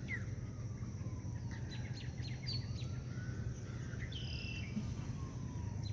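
Steady low background hum with scattered faint, high, short bird chirps, a small cluster of them about four seconds in.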